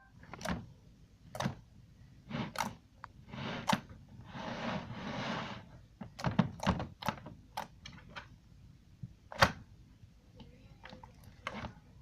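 Sand slime being poked and squished by hand: a scattered series of short, sharp sticky clicks and pops, with a longer crackly squish about four seconds in.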